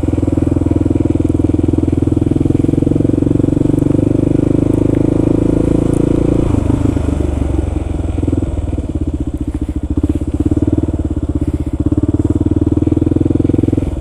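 Kawasaki KLR650's single-cylinder engine running as the motorcycle is ridden, a steady note that changes about halfway through to a lumpier, pulsing beat.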